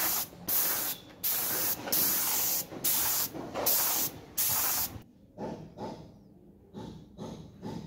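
Aerosol spray paint hissing out in short bursts, about seven in quick succession, each under a second long. After about five seconds the spraying stops and only faint tapping and rubbing follows.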